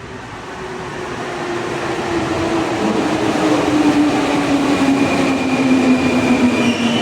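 Santiago Metro rubber-tyred train coming into the station, growing steadily louder as it nears, its motor whine falling in pitch as it slows.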